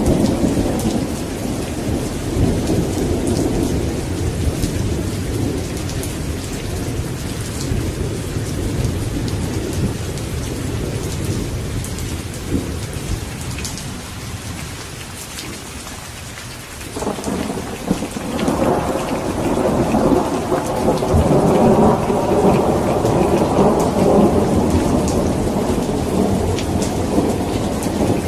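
Steady rain in a thunderstorm with rolling thunder. One rumble fades away through the first half, then a new peal breaks in suddenly just past the middle and swells louder.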